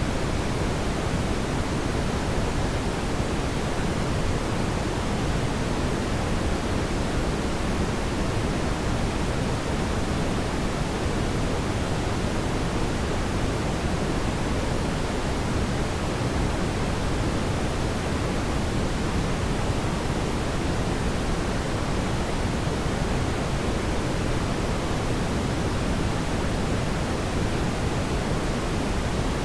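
Steady, even rushing noise, like pink noise, without any crackles, pops or other changes.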